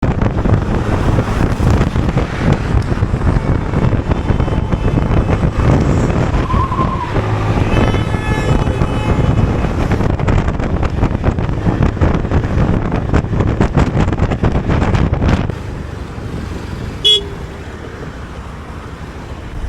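Motorcycle riding at speed, with loud road and wind noise; a vehicle horn sounds for a second or two about midway. The noise drops as the bike slows, and a short horn beep comes near the end.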